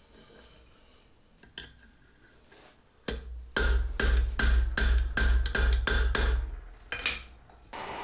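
Blacksmith's hammer striking steel on an anvil: a run of about ten ringing blows, roughly three a second, starting about three seconds in, then two more near the end.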